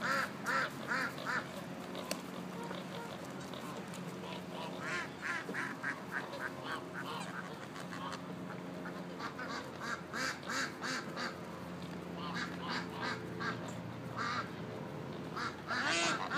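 Geese and ducks calling: runs of short repeated honks and quacks that come in groups, loudest near the end, over a steady low hum.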